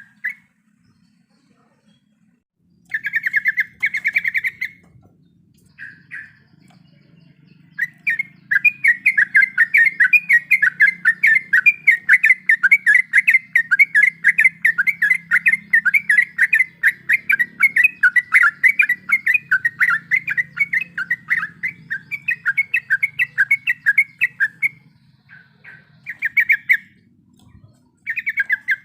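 Yellow-vented bulbul (trucuk) singing rapid, chattering runs of repeated notes. A short burst comes about three seconds in, then a long unbroken run from about eight seconds to about twenty-five, then short bursts near the end.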